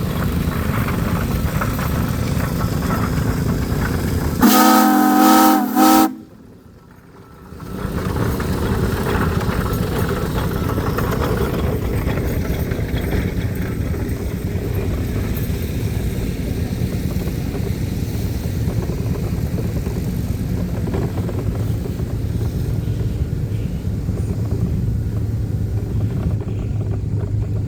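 A steam engine whistle blows once, about four seconds in, for about a second and a half: a loud chord of several steady tones. Around it runs the steady low sound of engines running.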